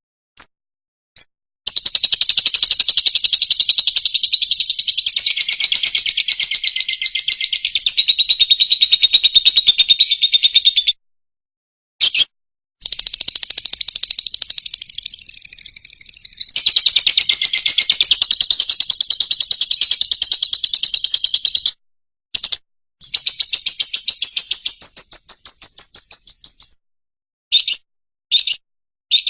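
Fischer's lovebird singing: long runs of rapid, high chirps lasting several seconds each, broken by short pauses and a few single chirps.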